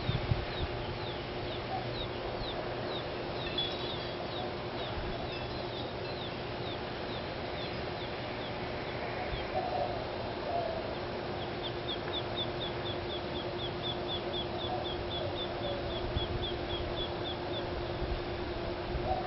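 Gambel's quail chicks peeping: runs of thin, high, down-slurred peeps, about three to four a second, at the start and again in a longer run past the middle, over a steady low hum.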